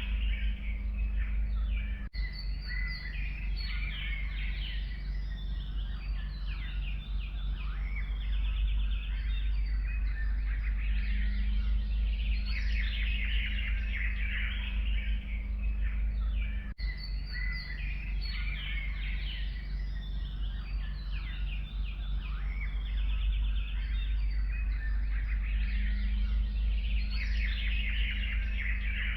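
Forest ambience: a dense chorus of several songbirds singing and calling over a steady low rumble. The recording is looped, with a brief break about two seconds in and again about seventeen seconds in.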